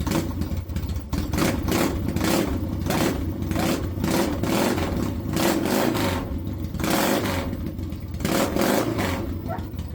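A 1972 Yamaha XS custom bobber's engine running, with irregular sharp clicks and knocks over a steady low rumble.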